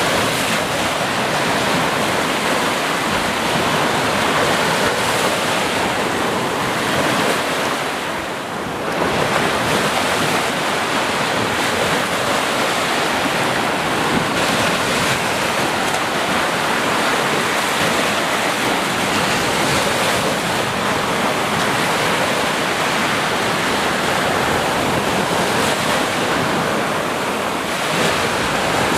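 Sea waves breaking and washing on the shore, a continuous surf rush with a brief lull about eight seconds in.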